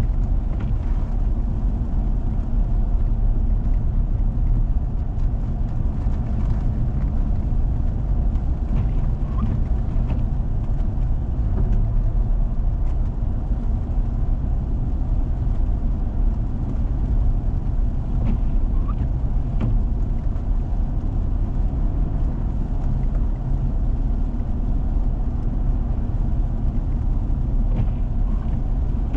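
A four-wheel-drive vehicle driving on a snowy road: a steady low rumble of engine and tyres, with a few faint ticks.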